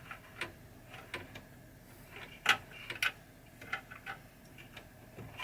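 Light, irregular clicks and taps of a small screwdriver bit and screws being worked by hand, about a dozen sharp ticks at uneven spacing, the loudest about halfway through.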